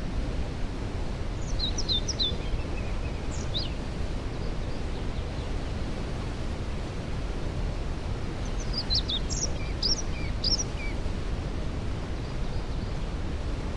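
A waterfall rushing steadily in the background, with a songbird singing two short, quick phrases of high chirps and whistles, one a couple of seconds in and another about two-thirds of the way through.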